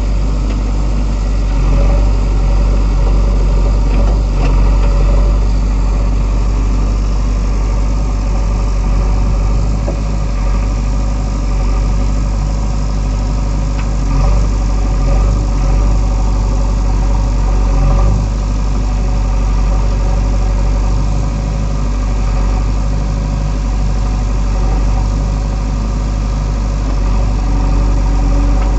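Diesel engine of a JCB 3DX backhoe loader running steadily at low revs, with small swells in level now and then.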